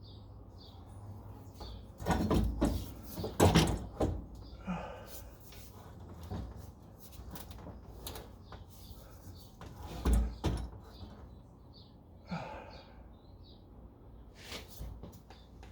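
Irregular clunks, knocks and scrapes of a metal exhaust pipe being worked and twisted against the car's underside, with a cluster of loud knocks early on and another pair about ten seconds in.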